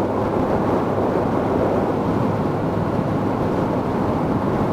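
Steady wind rush over the microphone of a moving motorcycle, with its engine running evenly underneath at a constant cruising speed.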